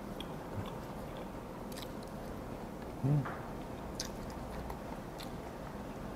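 Soft, wet chewing and biting of a mouthful of raw silchi (tiny fish fry), with a few faint clicks. A brief low hum from the eater about three seconds in.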